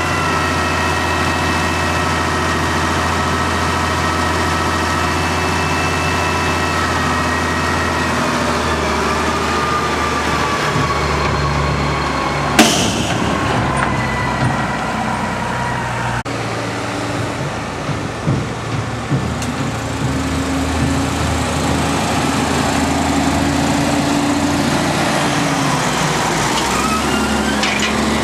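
Tractor engines running steadily at work, their pitch shifting slowly, with one sharp knock about halfway through and a few lighter knocks after it.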